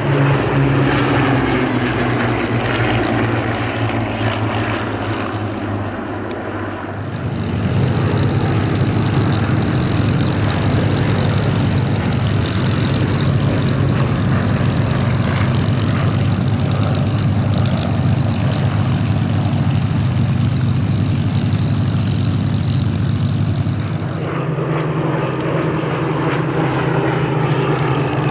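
Propeller-driven Second World War fighter aircraft flying, its piston engine giving a steady low drone. A loud hissing rush joins it abruptly about seven seconds in and drops away about seven seconds before the end.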